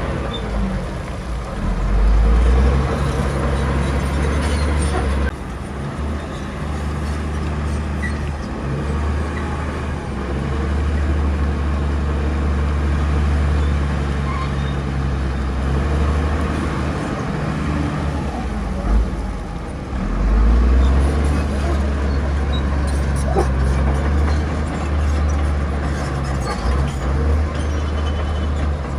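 Bulldozer's diesel engine running under load, a deep steady drone that swells and eases as the work load changes.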